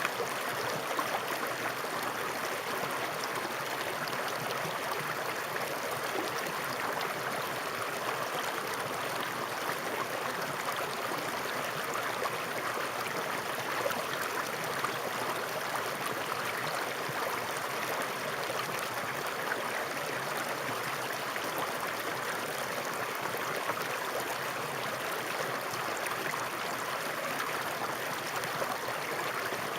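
Stream water flowing steadily over rocks, a continuous even rush with light gurgling.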